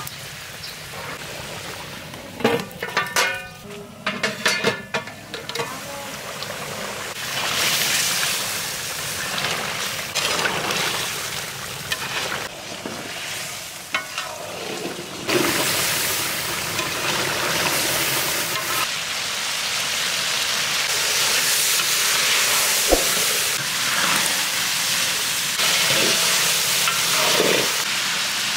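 Food frying in hot oil in a cooking pot, sizzling while it is stirred, with a metal spoon scraping and clinking against the pot a few seconds in. The sizzle turns into a louder, steady hiss about halfway through.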